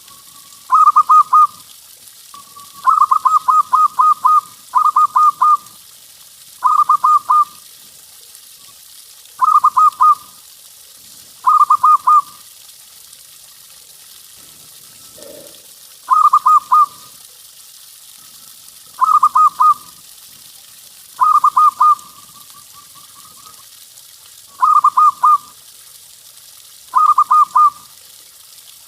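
Local zebra dove (perkutut) cooing: about a dozen short phrases of quick, rolling coo notes, one every two seconds or so, some phrases longer than others, over a faint steady hiss.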